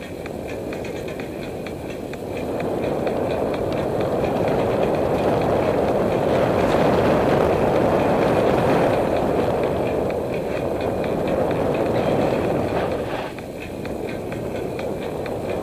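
Mountain bike rolling downhill on a rough dirt trail: a steady rumble of tyres and rattle, louder from about two seconds in and easing off near the end.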